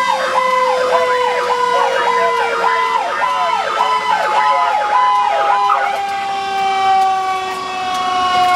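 Emergency vehicle sirens: one cycles up and down between two pitches about once a second and stops about six seconds in, while a second long siren tone slowly drops in pitch underneath, like a siren winding down.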